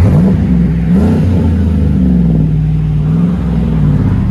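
Car engine revved through an exhaust with an 11-inch Magnaflow muffler: two quick blips of the throttle, then held at higher revs for a couple of seconds before dropping back.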